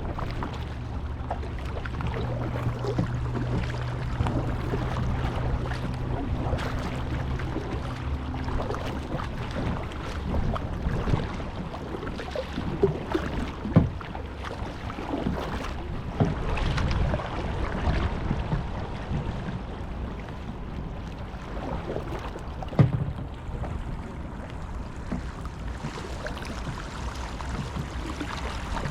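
Kayak paddling: paddle blades dipping and splashing in irregular strokes, with a few sharp knocks, over wind on the microphone. A steady low hum runs under it for the first nine seconds or so.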